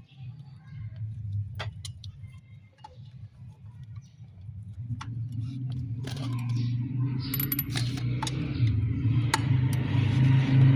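Electric water pump motor humming steadily, getting louder about halfway through with a hiss above the hum. Scattered clicks come before it.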